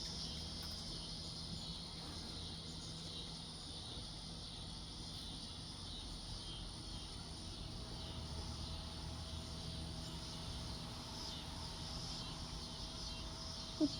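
A steady outdoor insect chorus, an even high buzzing hiss, over faint low background rumble. A brief run of short, louder sounds comes right at the end.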